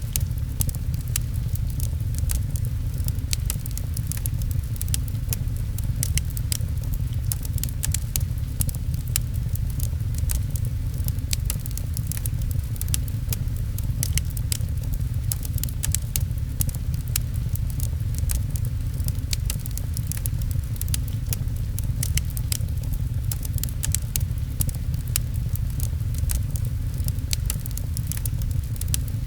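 Fireplace crackling with many small sharp pops and clicks, over a steady low rumble of rain.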